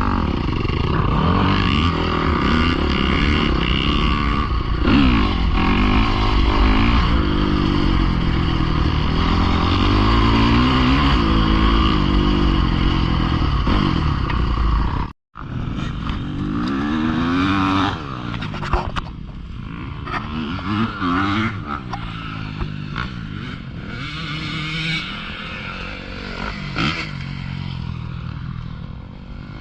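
Dirt bike engine revving up and down as the bike is ridden, its pitch rising and falling over and over. About halfway through the sound cuts out for an instant, then the engine carries on, somewhat quieter.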